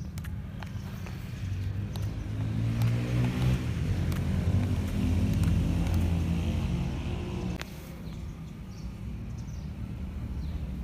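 Radio-controlled model truck's motor running up: a pitched motor sound rises in pitch and loudness for several seconds, then cuts off suddenly about three-quarters of the way through, over a steady low hum.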